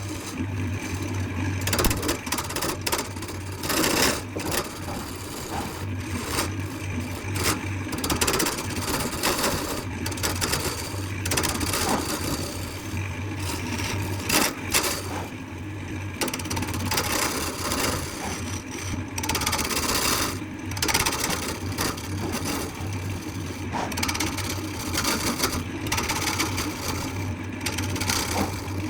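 A power tool's motor running steadily with a low hum, while material is worked against it with irregular scraping and frequent small knocks.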